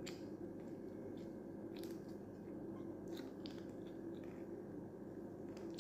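A person chewing fried fish with a handful of soft, scattered clicks and smacks from mouth and fingers, all faint over a steady low background hum.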